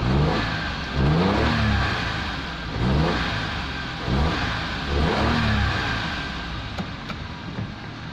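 Perodua Nippa's small three-cylinder engine running, its throttle blipped about four times so the revs rise and fall, then settling back to idle. It still runs a little lumpy: a lingering misfire after a new distributor cap.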